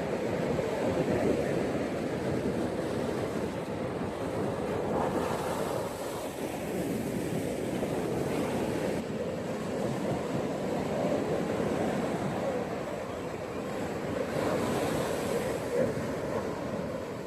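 Ocean waves breaking and washing on a beach, a continuous surf rush that swells and eases every few seconds, with a brighter hiss of wash twice.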